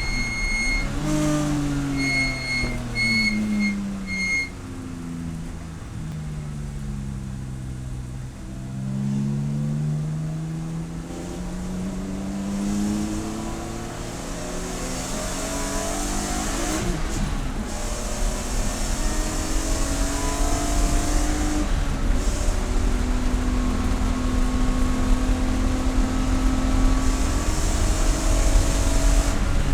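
Race car engine under load, its revs climbing and dropping again and again through gear changes, then holding a steady high note for the last few seconds. A high electronic beep sounds in several short pulses in the first few seconds.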